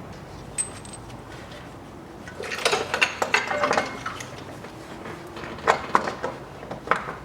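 Metal clinks and a rattling clatter of hand tools and bolts being handled while a starter motor is fitted to a car engine, with a burst of clatter a few seconds in and a few sharp single clicks near the end.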